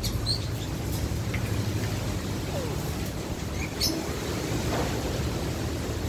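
A few short, faint bird chirps scattered over a steady low rumble, with one sharper chirp a little before four seconds in.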